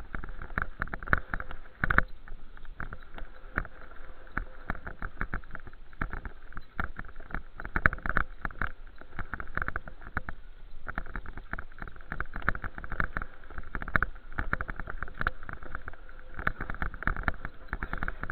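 Dense, irregular rattling and knocking from a bicycle being ridden.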